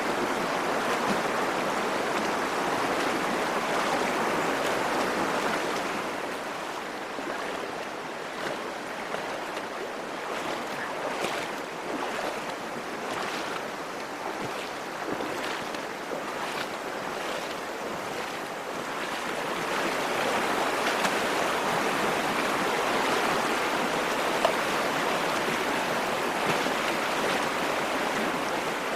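Steady rush of the Virgin River's water flowing through the slot canyon, easing somewhat after about six seconds and swelling again near twenty seconds, with faint splashes in the middle stretch.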